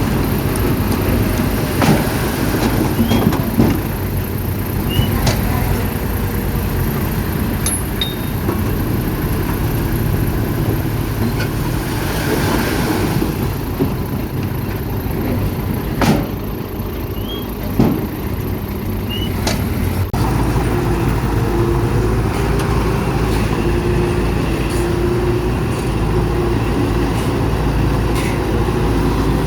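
Heavy diesel earthmoving machinery running steadily under load, with several sharp metallic clanks. Its sound changes abruptly about two-thirds of the way through to a smoother, steady drone.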